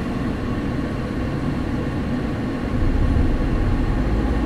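A manual-transmission car's engine running at idle, heard from inside the cabin as a steady low rumble that grows a little louder about three seconds in.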